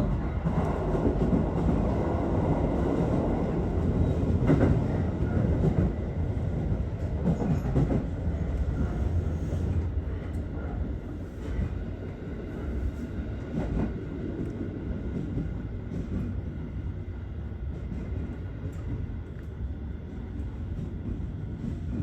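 Aichi Loop Railway 2000 series electric train running on the line, heard from inside the front car: a steady rumble of wheels on rail that grows quieter over the second half.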